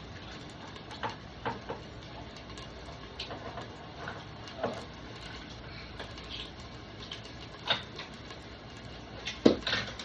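Scattered metallic clicks and clinks of a can of curry paste being opened and handled, with a louder clatter near the end.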